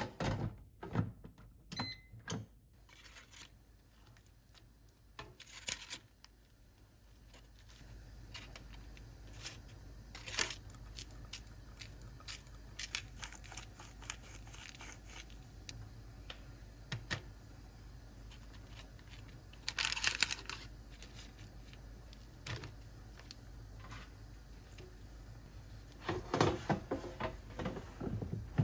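Close-up handling noises: scattered clicks and knocks, with a few longer rustling or tearing bursts, the loudest about 20 s in and again near the end.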